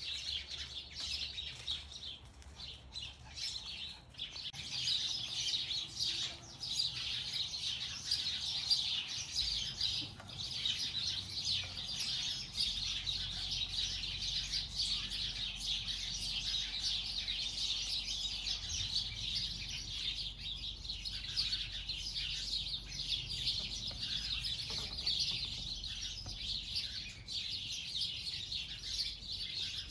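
Birds chirping in a dense, continuous chatter.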